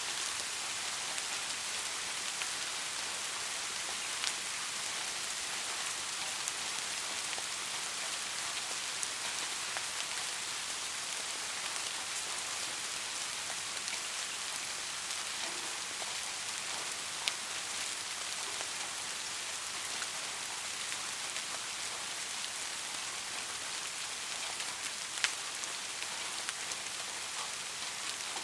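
Steady rain falling on a surface, an even hiss with individual drops ticking through it and a few louder single drop hits.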